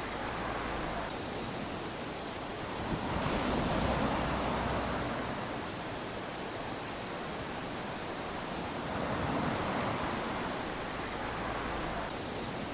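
Small waves lapping onto a sandy shore, a steady wash of surf that swells as a wave comes in about three seconds in and again near ten seconds.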